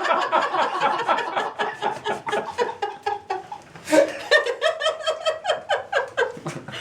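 People laughing in a long fit of rapid, pulsing laughter, with a fresh, louder burst about four seconds in.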